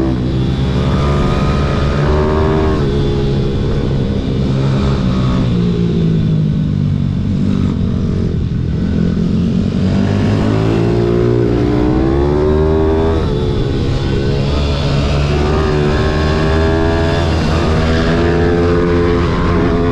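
Pit bike engine revving up and down as it is ridden, its pitch climbing and dropping again and again, with a lower stretch about halfway through.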